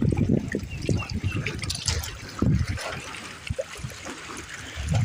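Water trickling and lapping at the lake's edge, with irregular low rumbles and thumps throughout.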